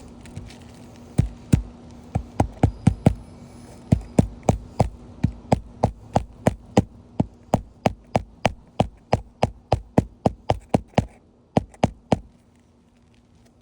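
Hammer driving roofing nails through a replacement roof shingle: a long series of sharp strikes, about two to three a second, stopping about twelve seconds in.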